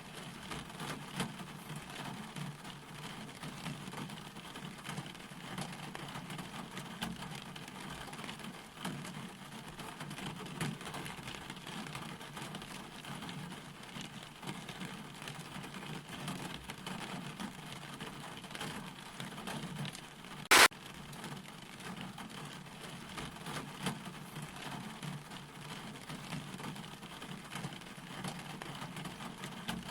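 Steady rain falling, with a continuous patter of drops. A single sharp, loud click cuts through about two-thirds of the way in.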